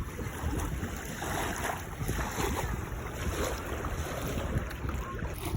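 Wind buffeting the microphone, a gusty low rumble, over the wash of waves on the shore.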